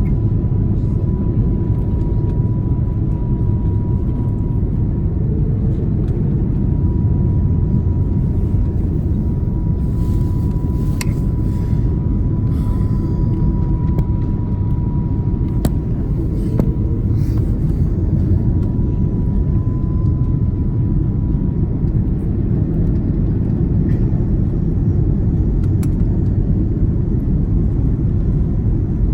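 Airbus A330 cabin noise: a steady low rumble with a faint steady whine above it and a few faint clicks.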